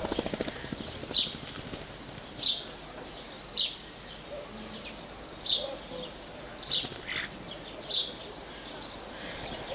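A songbird's short, sharp, high call repeated six times, roughly once a second, over a steady high insect drone, as in a bird-training (masteran) recording. A brief low rapid rattle comes right at the start.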